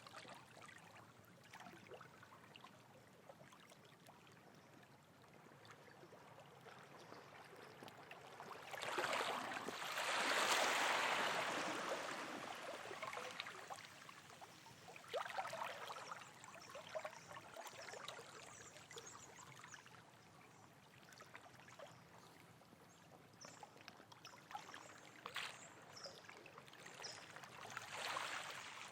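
Running water in a rainforest, a steady rush that swells louder about a third of the way in and eases off, with a few shorter surges later.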